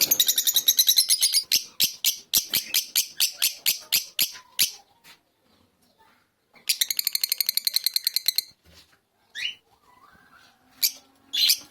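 Fischer's lovebird chirping: a fast run of shrill chirps lasting about four and a half seconds, a pause, a second quick burst of chirps, then a few scattered calls.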